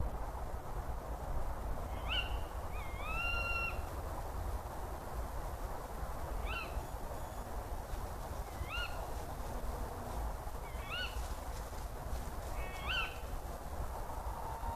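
A bird calling: six short, sharp calls that sweep upward in pitch, spaced about two seconds apart, one near the start drawn out longer. They sound over a steady hiss and low hum.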